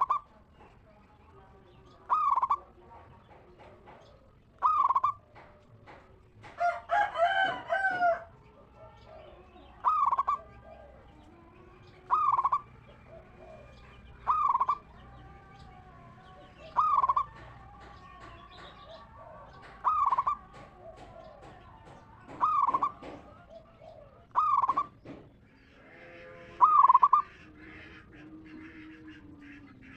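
Zebra dove (perkutut) cooing: a short call repeated about every two and a half seconds, with one longer, fuller call about seven seconds in.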